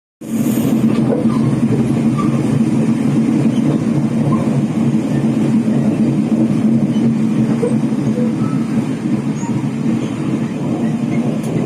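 Chu-Kuang express train running as it arrives at Taipei: a loud, steady rumble with a low hum that starts suddenly just after the beginning.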